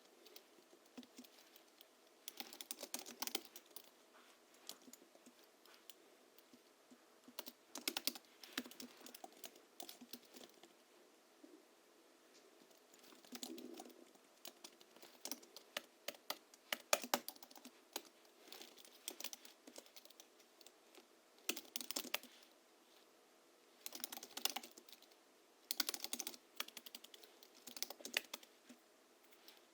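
Typing on a Hansung GHL-5X keyboard whose springs are lubricated with Krytox 103/107 and fitted with 50 g rubber domes. The keys click in quick flurries of a second or two, broken by short pauses.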